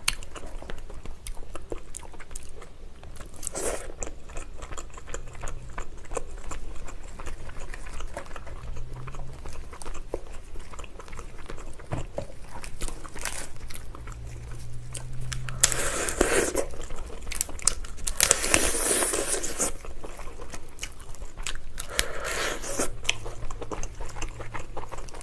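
A person eating lobster close to the microphone: biting and chewing with many small crunches and crackles. Several louder, longer crunching bursts come in the second half.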